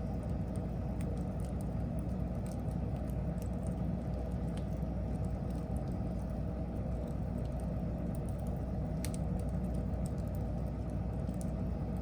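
Wood fire burning: a steady low rumble with scattered small crackles and snaps from the burning wood, one a little sharper about nine seconds in.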